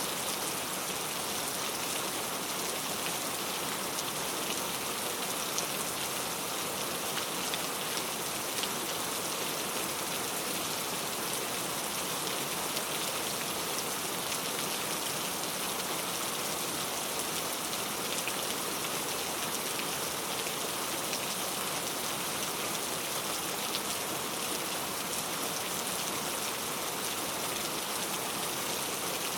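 Steady rain falling, an even hiss with many fine drop ticks that does not change in strength.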